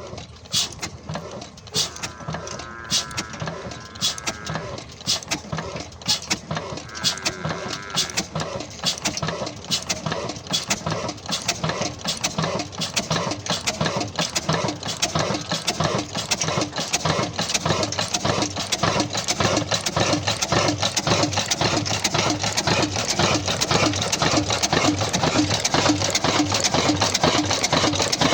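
Old Ruston tube-well diesel engine just after starting: its firing beats come faster and louder as it picks up speed, then settle into a steady, rapid chugging for the last ten seconds or so.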